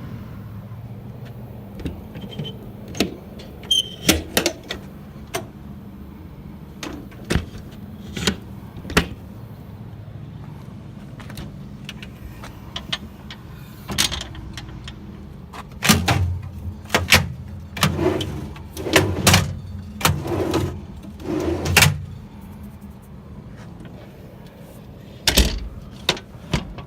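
Clicks and knocks of doors and latches on a work truck being opened and shut, a few at a time and then in a busy run past the middle, over a steady low hum.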